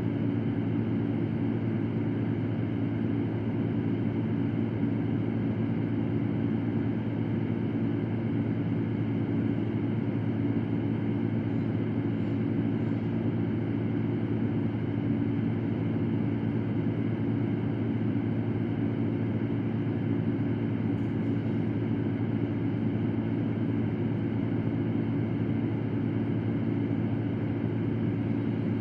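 Electric fan running steadily: an even rush of air with a low hum underneath, unchanging throughout.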